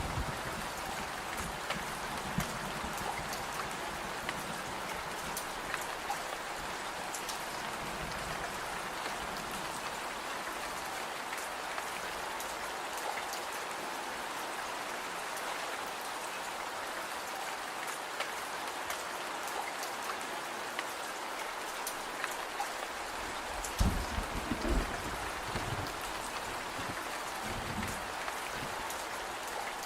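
Steady rain falling, with scattered sharp ticks throughout and a short cluster of low thuds about three-quarters of the way in.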